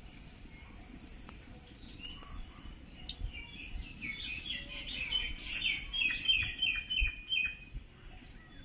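Small birds chirping: a few scattered chirps, then a quick run of short, repeated high chirps through the middle of the stretch. Underneath is a low rumble of wind on the microphone.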